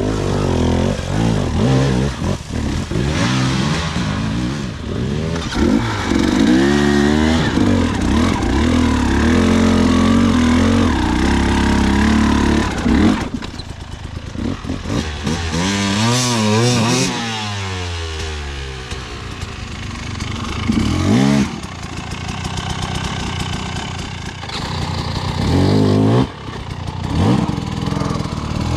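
Dirt bike engine revving up and down as it is ridden, the pitch climbing and dropping again and again, with a sweeping rise and fall of pitch about halfway through.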